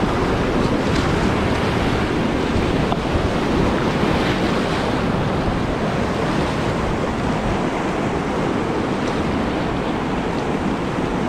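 Steady rush of whitewater from a river rapid, an even noise with no break or change.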